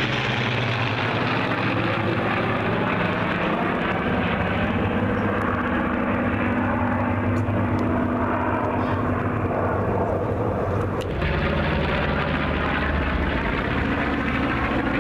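Airplane engine noise as an aircraft flies past, loud and steady, its pitch dropping in the first second. A deeper rumble fills in about eleven seconds in.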